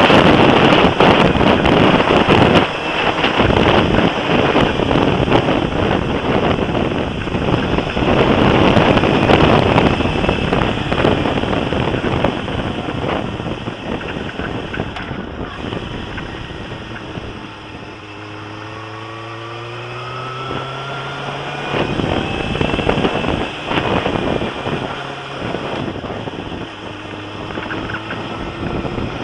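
Wind buffeting a bike-mounted camera as a Suzuki GSX-R motorcycle is ridden. Past the middle the wind eases and the engine note falls as the bike slows, then settles briefly before rising again as it pulls away.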